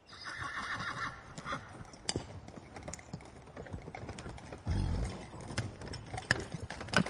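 A horse whinnies for about a second, followed by scattered sharp knocks and clicks of hooves and movement, with a heavier low thump about five seconds in.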